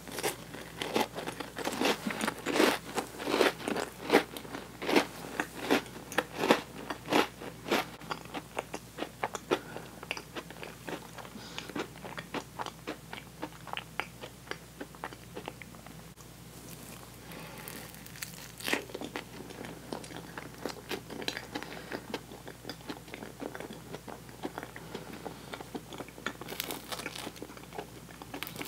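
Close-miked crunching and chewing of an Oreo cookie, with many sharp crunches in the first ten seconds that then thin out to softer, scattered chewing.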